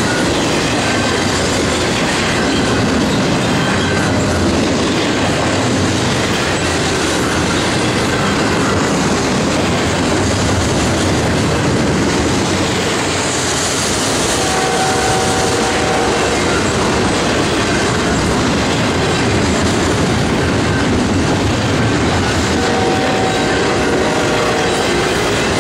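A Canadian Pacific double-stack container train's well cars rolling steadily past close by, with the continuous loud noise of steel wheels on the rails.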